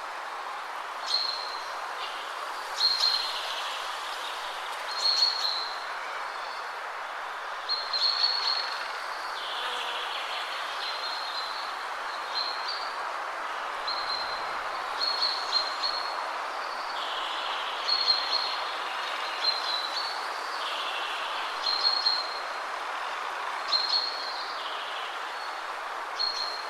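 Steady rush of wind through trees, with a songbird repeating a short phrase about every two seconds.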